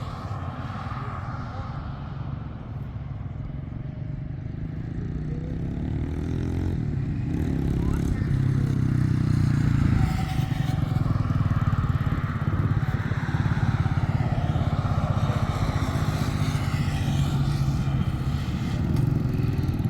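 A motor vehicle's engine running steadily, growing louder over the first several seconds and then holding.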